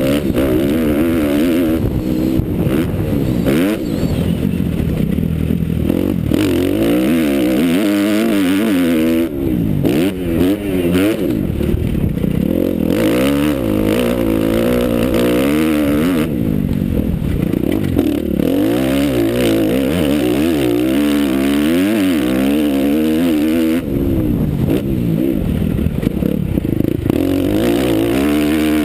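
Motocross motorcycle engine being revved hard and repeatedly backed off, its pitch climbing and dropping again every second or two.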